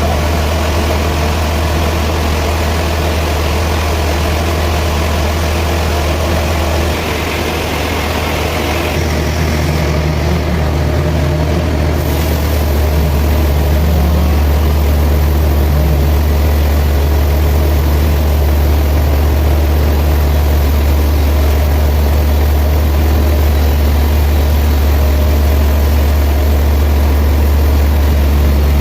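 Heavy sawmill machinery running steadily with a deep, low engine drone, a little louder from about seven seconds in and again a few seconds later.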